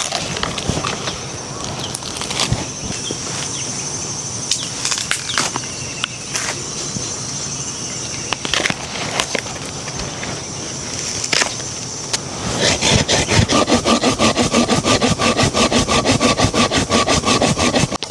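Hands-on outdoor food preparation: scattered knocks and clicks over a steady high hiss, then, about twelve seconds in, a fast, even run of strokes, about five a second.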